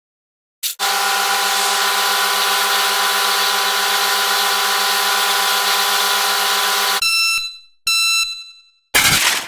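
Sped-up stock sound effects: a steady, harsh buzzer-like tone that holds for about six seconds, then cuts off and gives way to two short ringing tones, one after the other.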